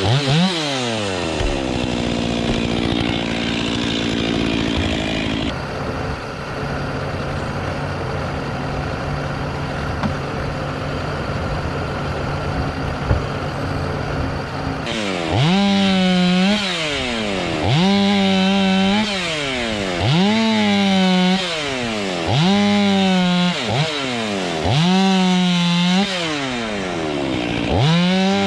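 Gas chainsaw winding down and idling, then revved in short repeated bursts roughly every two and a half seconds over the second half.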